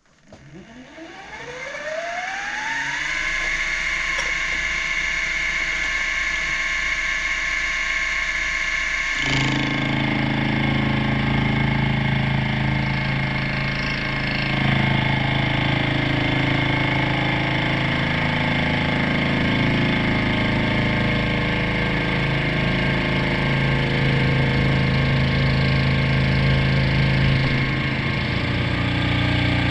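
Milling machine spindle motor starting up with a rising whine that settles into a steady tone within about three seconds. About nine seconds in, a heavier, lower drone joins and holds steady, as the facing cut in the bronze bar gets under way.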